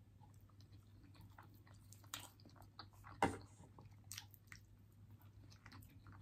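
Close-up chewing of a mouthful of seafood-boil food: soft, faint wet mouth clicks, with a few louder smacks, the loudest a little over three seconds in.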